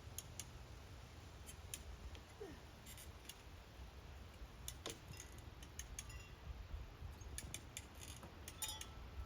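Quiet, with faint scattered light clicks and ticks over a steady low rumble.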